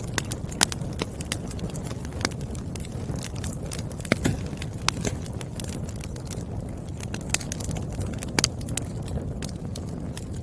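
Wood fire crackling: a steady low rumble of burning logs with irregular sharp pops and snaps from the firewood.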